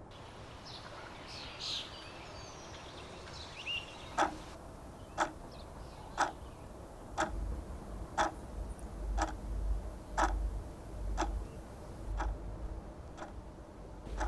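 Clock ticking steadily about once a second, starting about four seconds in, with birds chirping in the first few seconds and a low rumble underneath.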